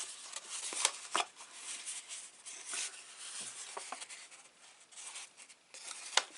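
Paper being folded and handled by hand: soft rustling and rubbing with a few short, sharp crinkles, a couple about a second in and another near the end.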